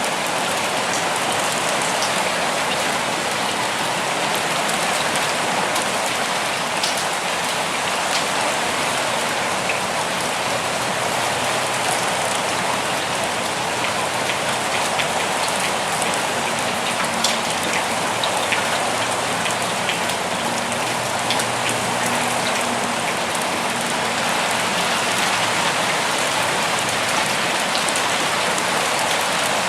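Steady forest rain: an even hiss of rainfall with scattered sharp drops ticking close by.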